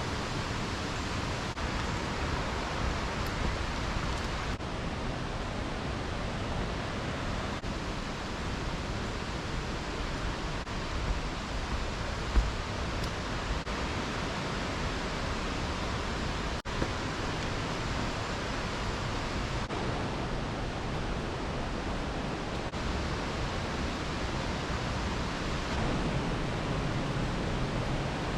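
Steady rushing roar of a waterfall, with water pouring continuously and no break in the noise apart from brief dips. There is a single short bump about twelve seconds in.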